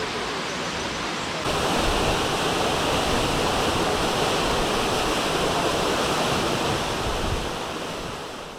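Waterfall: a steady rush of falling water that jumps louder about a second and a half in, then fades out at the end.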